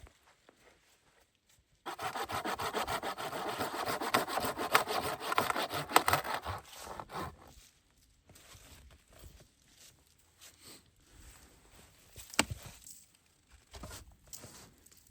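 Hand saw cutting through a wooden branch in quick rasping strokes for about five seconds. Then come quieter scattered handling sounds and one sharp crack later on.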